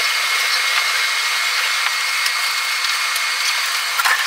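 Steady whirring hiss of a Tobu 50000-series train running along a platform, heard from inside the driver's cab, with a faint steady high tone through it and a few clicks near the end.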